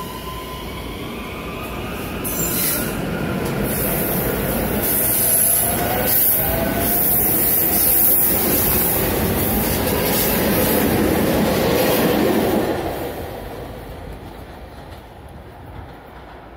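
SEPTA Regional Rail electric multiple-unit train pulling out of the station and passing close, its motors whining upward in pitch as it gathers speed. It grows louder, then fades quickly after about thirteen seconds as it moves away.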